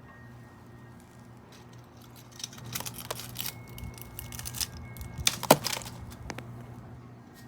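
Dry sunflower head being handled and its seeds rubbed out by hand: irregular crackling, snapping and rustling, with one louder snap about halfway through.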